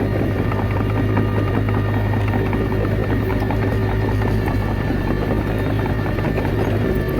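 Small crawler bulldozer's diesel engine running steadily, a Komatsu D21A, with scattered light clicks and clanks throughout.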